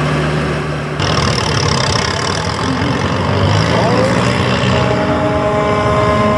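Farm pulling tractor's engine running loud, with an abrupt change in its sound about a second in and a steady whine coming in near the end.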